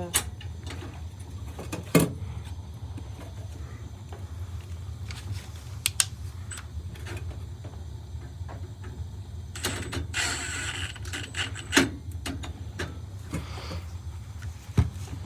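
Hands fitting a new flame sensor into a gas furnace: scattered sharp metallic clicks and knocks as parts and screws are handled, and a brief rustling scrape near the middle, over a steady low hum.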